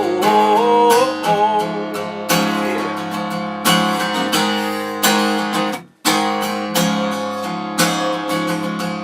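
Acoustic guitar strummed steadily in a country song's instrumental break, with a wavering melody line over it for the first second or so. The strumming cuts off for an instant about six seconds in, then picks up again.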